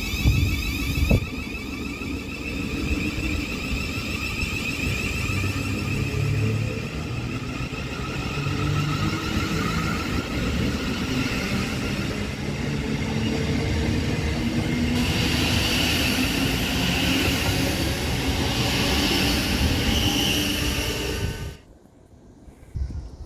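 Thameslink Class 700 electric multiple unit pulling out along the platform: a whine of several steady tones over wheel and rail rumble, turning into a brighter rushing about two-thirds of the way through. It drops away suddenly near the end.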